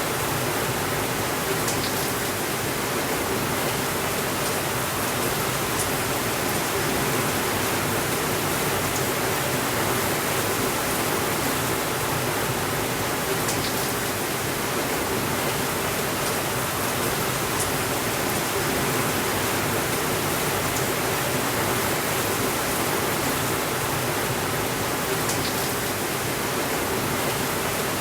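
Steady rainfall, an even unbroken hiss, with a few faint sharp clicks every several seconds.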